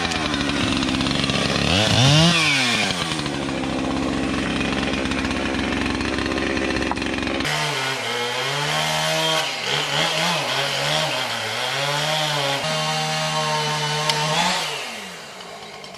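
Chainsaw cutting felled cherry logs, revving up and down as it bites into the wood. The sound changes abruptly about halfway through, and the saw slows and drops off near the end.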